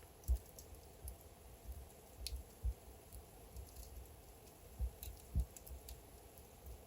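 Wood logs burning in a fireplace, crackling with irregular small snaps and ticks. A few louder pops land about a third of a second in, near the middle, and late on.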